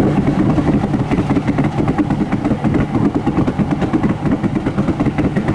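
Loud modified car's exhaust running at low revs with a fast, uneven pulsing.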